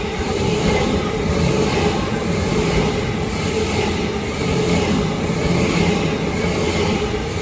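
Electric suburban train running past the platform: a loud, steady rush of wheel, rail and motor noise.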